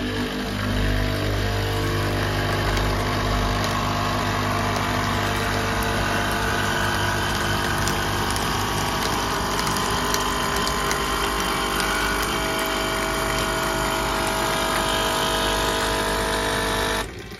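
Coffee machine running a descaling cycle: its pump hums steadily as it pushes the cleaning solution through, then cuts off suddenly near the end.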